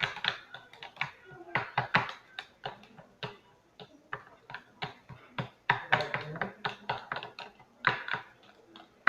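A quick, irregular run of sharp clicks and taps, several a second, as small objects are handled and knocked together.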